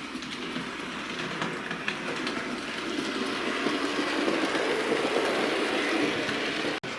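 Bachmann A1 Pacific model locomotive running on model railway track: a steady rumble of the motor and wheels with light clicks over the rail joints, getting louder in the middle as it comes past. The sound drops out for an instant near the end.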